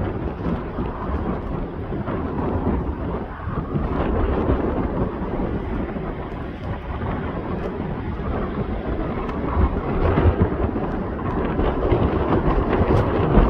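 Deep, steady rumble of a diesel-hauled train: locomotive TR17 and its empty ballast wagons, with no clear tones or separate strikes standing out.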